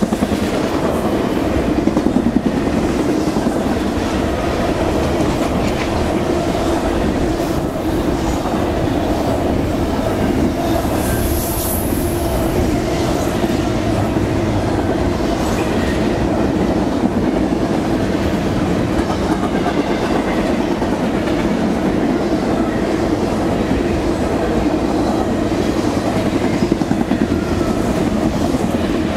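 CSX double-stack intermodal freight cars rolling past close by: a steady rumble and clatter of steel wheels on the rails, with a brief high squeal about eleven seconds in.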